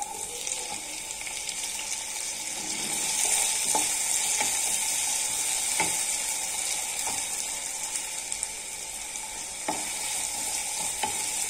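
Chopped tomatoes and onions sizzling in hot mustard oil in a kadhai, the sizzle growing louder about three seconds in. A wooden spoon stirring them clicks and scrapes against the pan now and then.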